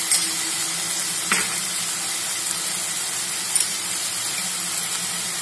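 Chopped vegetables and paneer sizzling in a hot frying pan with a steady hiss, broken by a few short clicks.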